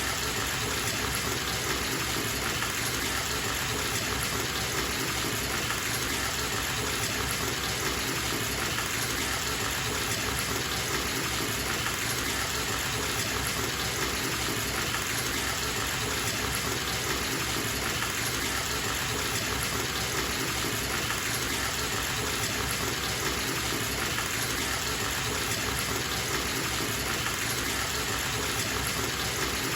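Bathtub tap running steadily into the tub, an even rushing of water as the bath fills.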